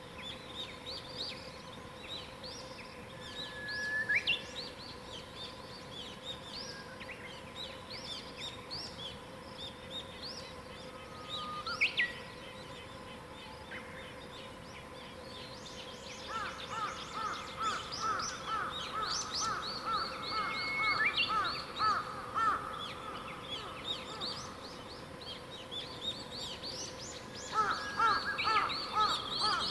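Morning birdsong of several songbirds: many short high chirps throughout, a clear whistle that slides up to a higher note about 4 seconds in and again about 12 seconds in, and from about 16 seconds a fast run of repeated lower notes that comes back near the end. A faint steady hum lies beneath.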